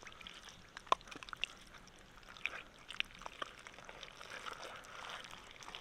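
Light water sounds, dripping and splashing, with scattered small clicks and ticks.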